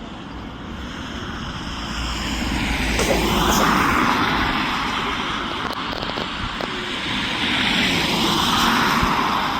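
Jet airliner engines passing by; the noise grows to a peak about three to four seconds in, eases off, then swells again near the end.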